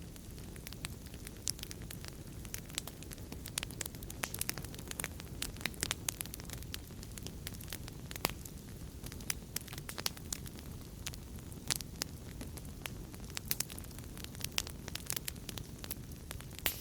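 Wood fire crackling steadily in a fireplace: many sharp pops and snaps, several a second, over a low steady rumble of the flames.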